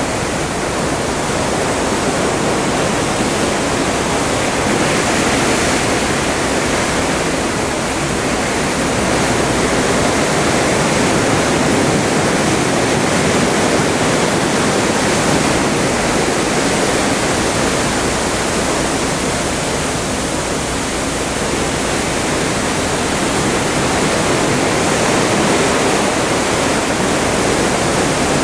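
Atlantic seawater rushing and churning past the hull of a cruise ship under way: a steady, loud rush that swells and eases slowly every few seconds.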